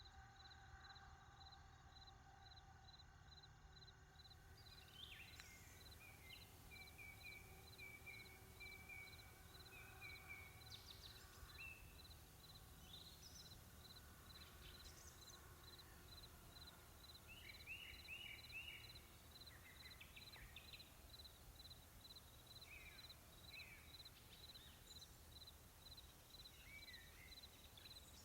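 Faint outdoor ambience: small birds chirping and trilling on and off, over a high pip that repeats about twice a second and a low, steady rumble.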